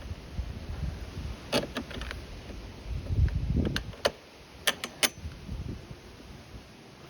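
Sharp small metal clicks and clinks, in two clusters, as a nut and bolt are fitted to a lawnmower's throttle lever, with dull handling bumps between them.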